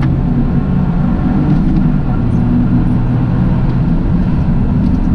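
Toyota GR Yaris three-cylinder engine running at a steady pace under way, with road noise.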